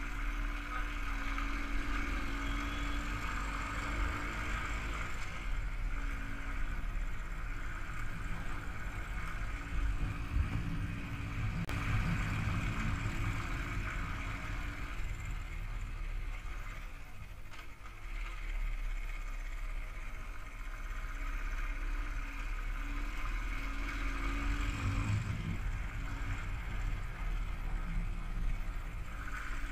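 Royal Enfield Thunderbird's single-cylinder four-stroke engine running under way as the motorcycle rides along, heard steadily with a short dip about two-thirds of the way through.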